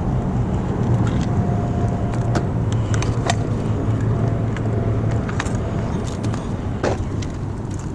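A vehicle engine running steadily with a low hum, with a scattering of short sharp clicks and rustles over it.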